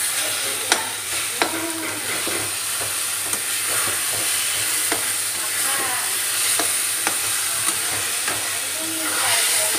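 A thick vegetable mash sizzling in hot oil in a kadai while a metal spatula stirs and presses it, scraping the pan and knocking against it now and then with sharp clicks.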